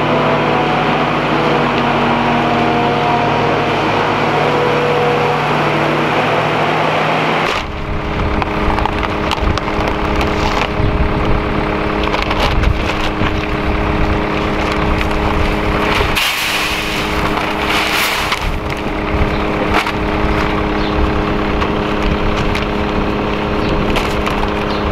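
John Deere 4450 tractor's six-cylinder diesel engine running steadily while planting. About seven seconds in, the sound changes abruptly to a different steady engine tone, with wind buffeting the microphone and a crackly rumble.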